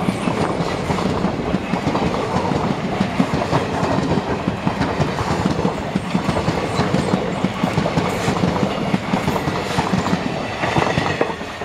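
Passenger coaches rolling past at speed, their steel wheels clattering on the track in a steady rumble. The sound fades near the end as the last coach goes by.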